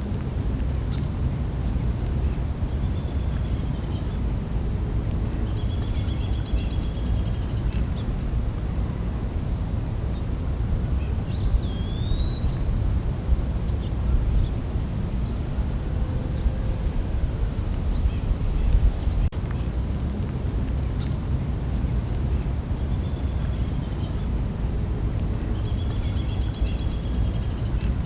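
Night-time forest ambience: crickets chirping in short, evenly spaced runs over a steady high-pitched insect drone. A few other short calls that sweep down in pitch come in twice and again near the end, all over a constant low rumble.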